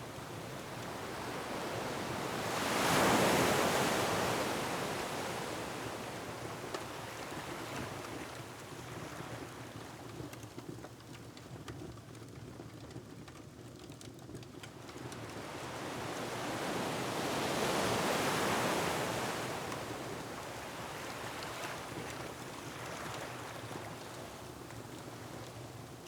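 Ocean waves breaking on a rocky shore, swelling into two long surges, one about three seconds in and one about eighteen seconds in, over a steady wash of surf. A fireplace crackles faintly underneath with small scattered pops.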